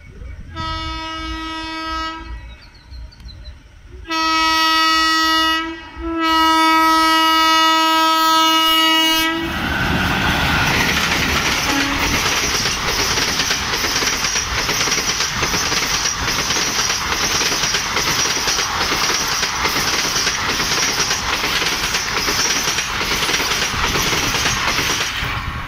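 WAP-4 electric locomotive's air horn sounding three blasts as the express approaches at speed: the first fainter and short, the last the longest. The horn then gives way to a steady loud rush and rattle of the passenger coaches running past close by, which lasts to the end.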